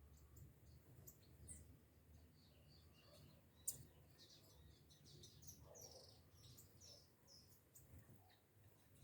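Small birds chirping, many short high-pitched chirps overlapping. A single sharp click stands out about a third of the way in.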